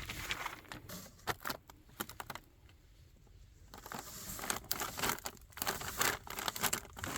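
Handling noise: irregular clicks and crinkling, like cardboard and plastic packaging being moved, with a quieter pause in the middle.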